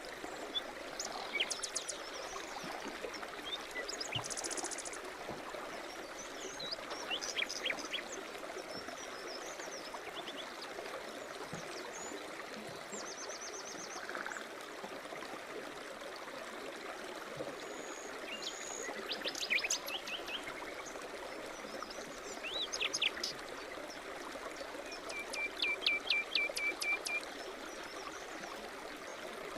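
A forest stream running steadily, with small songbirds chirping and trilling over it at intervals, including a fast run of repeated notes near the end.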